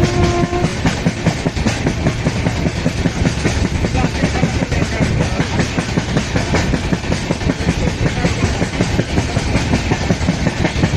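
Train passing close by, its wheels clattering over the rails in a fast, even rhythm. A steady horn tone cuts off under a second in.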